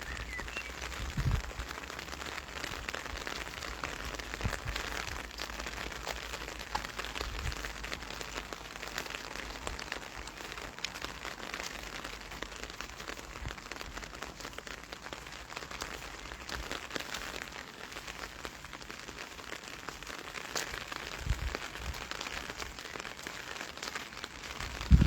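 Rain pattering steadily, with many small drop ticks, and a few brief low thumps scattered through it.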